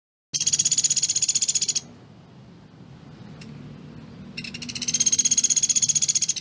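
Sunda pygmy woodpecker (pelatuk beras) giving two rapid, high-pitched rattling trills, each about one and a half to two seconds long. The second trill starts about four and a half seconds in and grows louder as it goes.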